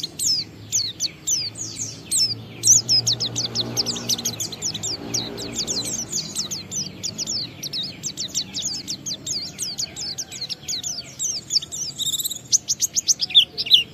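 White-eye (pleci) singing a fast, unbroken stream of high chirps and short trilled notes in its continuous 'ngalas' song, quickening and growing louder near the end.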